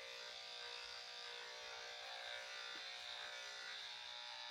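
Corded electric dog grooming clippers running with a steady buzz.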